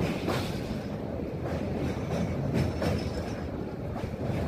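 Passenger train running over a river bridge, heard from on board: a steady low rumble of the wheels on the rails, with a few sharp clacks at uneven intervals as the wheels cross rail joints.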